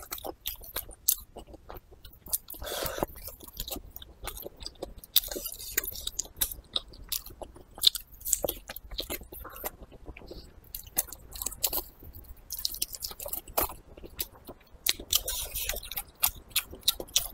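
A person chewing and biting into a braised pork trotter held in the hand, close to a clip-on microphone, with many irregular sharp mouth clicks.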